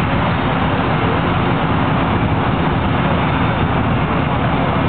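The four Wright R-1820 Cyclone radial engines of a Boeing B-17G running steadily at taxi power: a loud, even, rapidly pulsing rumble.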